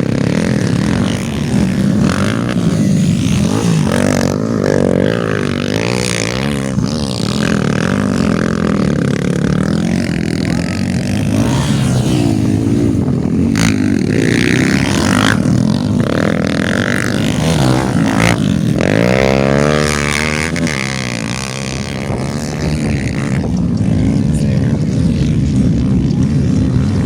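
Several motocross dirt bikes racing, engines revving up and down with repeated rising and falling pitch as riders throttle through the course.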